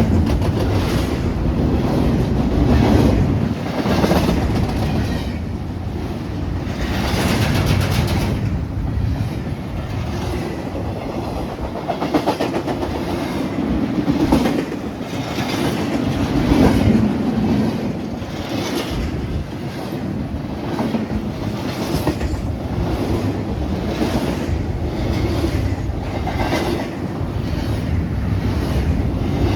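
A train passing on the track: a steady rumble with the repeated clickety-clack of wheels running over rail joints.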